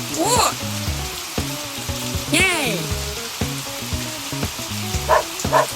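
Cartoon background music with a low, stepping bass line under a steady hiss, while a cartoon character's voice calls out "Whoa!" and then "Yay!" with gliding pitch.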